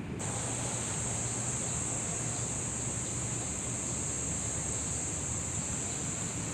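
Insects droning in a steady high buzz over a low rumble of outdoor background noise. The buzz starts suddenly just after the beginning.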